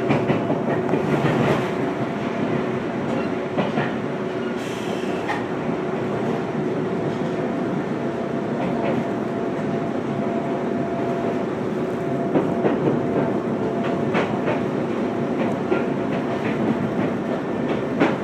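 Joshin Electric Railway electric train running, heard from inside the car: a steady hum under the rolling noise, with wheel clicks over rail joints that bunch together about twelve seconds in and again at the end.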